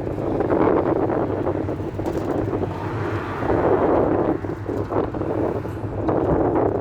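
Cabin noise inside an old Ford route minibus on the move: a steady low engine hum under constant road and wind noise.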